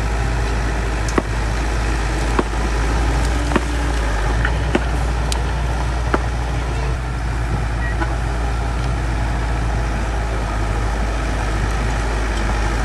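Bulldozer's diesel engine running steadily, with a sharp click about every second and a quarter during the first half.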